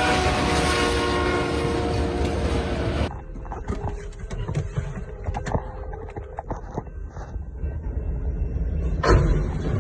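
Train horn sounding over the loud rumble of a moving train, its pitch sagging slightly. About three seconds in it cuts off abruptly to a quieter stretch of scattered knocks and clatter, and a loud rush of noise starts again near the end.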